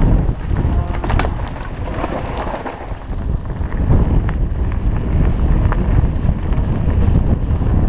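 Wind buffeting the camera's microphone during a bike ride down a trail, a deep, steady rumble. A few sharp clicks and rattles come through it, the loudest about a second in and around four and six seconds in.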